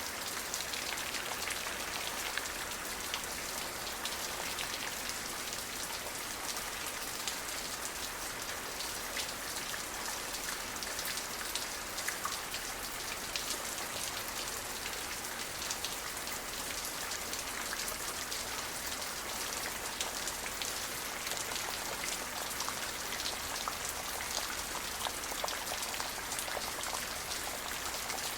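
Steady rain falling, the patter of many individual drops hitting a surface over an even hiss.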